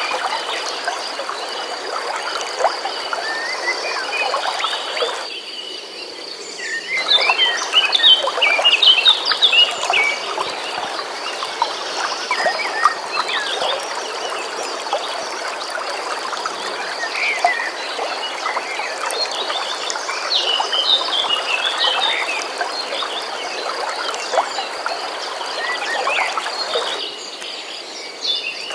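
Stream water running steadily, with songbirds chirping over it and a constant high, pulsing trill. The water sound dips out briefly twice, about five seconds in and near the end. A livelier burst of chirps comes about seven to ten seconds in.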